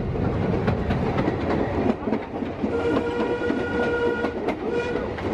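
Narrow-gauge train running along, its wheels clicking steadily over the rail joints. The locomotive's whistle sounds one long blast about three seconds in, then a short blast near the end.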